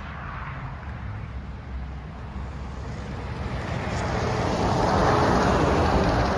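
A semi truck passing on the road: its tyre and engine noise swells to its loudest about five seconds in, then starts to fade.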